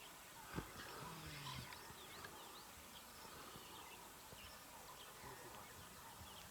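Near silence: faint outdoor ambience with a few faint chirps, and a single click about half a second in.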